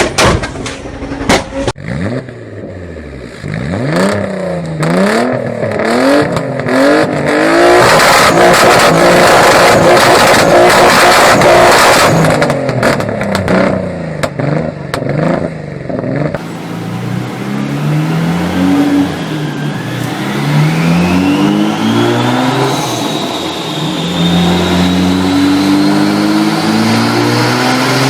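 Nissan 300ZX's VG30DETT twin-turbo V6 revved in several quick blips, then held loud at high revs, then accelerating up through the gears, its pitch climbing and dropping at each shift, with a thin whine rising over it in the second half.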